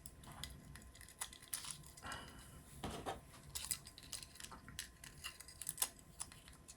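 Faint, irregular clicks and light taps of small hardware being handled: bolts and 3D-printed plastic robot parts knocking together as a sensor mount is lined up.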